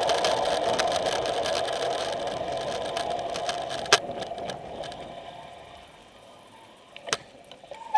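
Bicycle coasting downhill, its freewheel hub ratcheting in a fast buzz with rushing air, fading away as the bike slows. Two sharp clicks, about four and seven seconds in.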